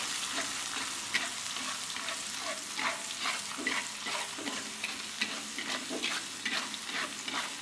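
Blended shallot-and-garlic spice paste sizzling in hot oil in a wok, with a spatula scraping and stirring it in quick, irregular strokes.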